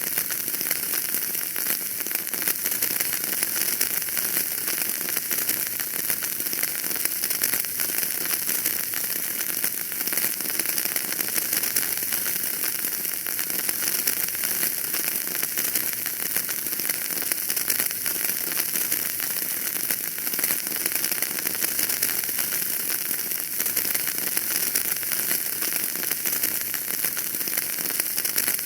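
Wood fire burning in a fireplace, a steady dense crackle of many small pops over a hiss.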